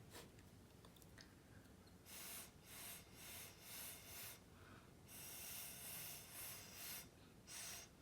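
A person blowing air through the mouth onto wet acrylic pour paint to push it across the canvas, as in a Dutch pour: faint puffs of breath, several short blows from about two seconds in, one long blow of nearly two seconds in the middle, and another short one near the end.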